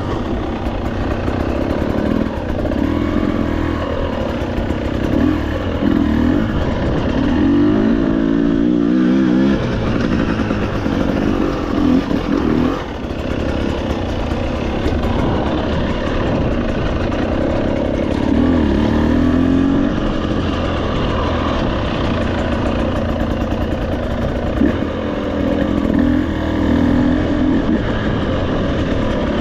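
Trail motorcycle engine running continuously, its pitch rising and falling again and again as the throttle is opened and closed.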